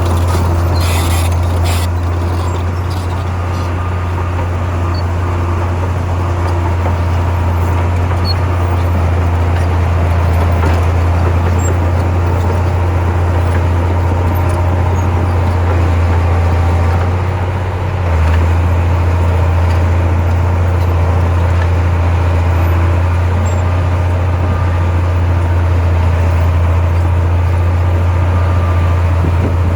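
Diesel engine of heavy earthmoving machinery running steadily with a low drone, dipping briefly about two-thirds of the way through.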